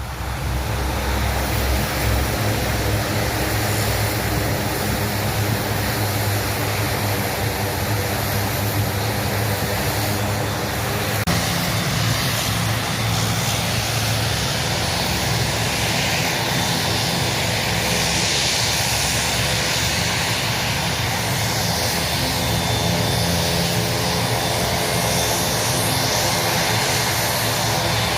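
Propeller airplane engine running steadily with a continuous pitched drone; the pitch shifts slightly about eleven seconds in.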